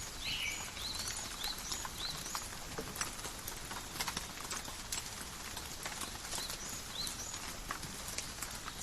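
Calm rain falling in a forest: a steady hiss of rainfall with individual drops tapping sharply. Short chirping notes of a bird come in quick succession in the first two seconds and again briefly about seven seconds in.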